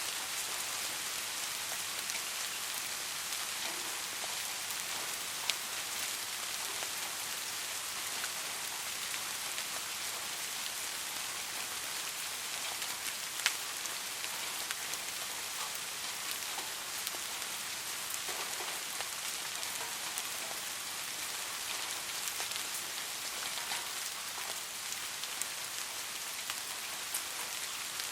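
Steady light rain falling, an even hiss with scattered individual drops ticking, one sharper drop hit about halfway through.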